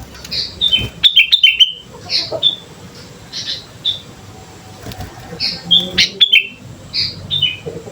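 Sooty-headed bulbul (kutilang) singing: short, bright phrases of quick chirps, some falling in a quick stepped run, repeated every second or two. A few sharp clicks come among the notes in the busiest phrases.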